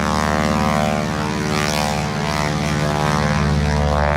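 North American Harvard trainer flying a display, its Pratt & Whitney R-1340 radial engine and propeller running steadily, with a hiss that swells and fades as it passes.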